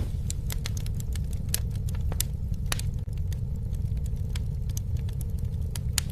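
Campfire burning, with sharp irregular pops and snaps of burning wood over a steady low rumble.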